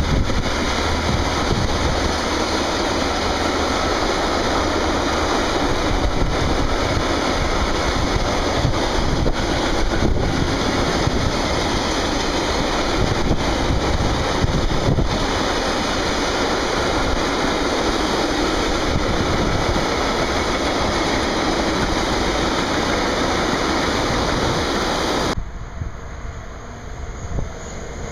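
Long freight train of bogie hopper wagons rolling past close by: steady rumbling wheel and rail noise. A little before the end it cuts off suddenly to a quieter, more distant train.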